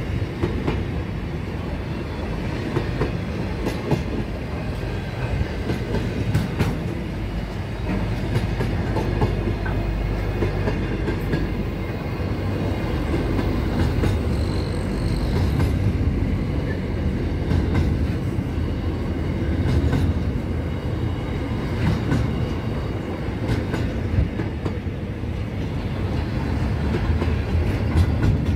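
Freight train wagons rolling past with a steady low rumble, their wheels clicking irregularly over the rail joints.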